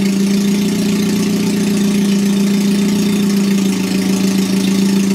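Caterham 310S's Ford Sigma 1.6-litre four-cylinder engine idling steadily during its first run after the build, warming up as the coolant starts to circulate.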